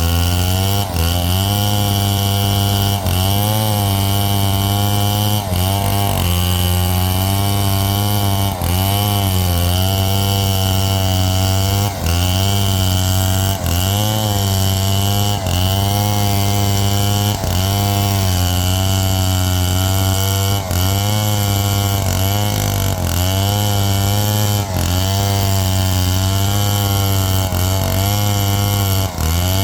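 Chainsaw running hard through wood, its engine pitch sagging and recovering about every one and a half to two seconds as the chain bites and clears.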